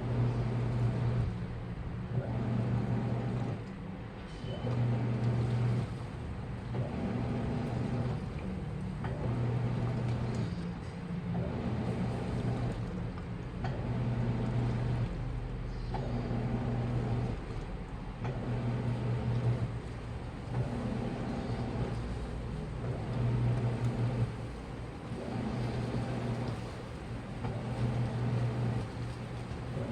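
Washing machine running a wash cycle: the drum motor hums in runs of about a second, stopping and starting again every two to three seconds as it tumbles the load.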